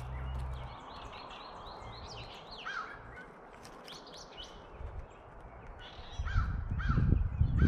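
Wild birds calling: a quick run of repeated high chirps, then several short lower calls, with crow-like caws among them. From about six seconds in a loud low rumble rises under the calls.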